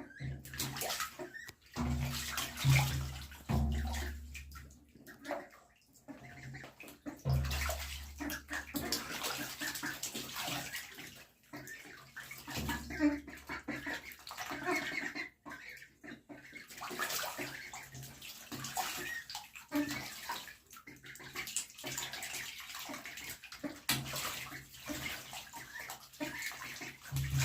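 Ducks splashing in a tub of water: irregular sloshing and splashing that comes and goes.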